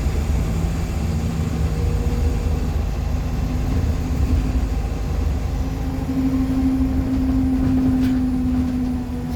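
Interior rumble of a 2014 Nova Bus LFS articulated hybrid bus with a Cummins ISL9 diesel and Allison hybrid drive, running, with a low hum that slowly rises in pitch and grows louder in the last few seconds.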